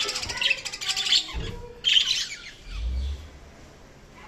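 Budgerigars chirping and chattering in rapid high bursts, busiest in the first two and a half seconds and tailing off near the end, with a brief low rumble about three seconds in.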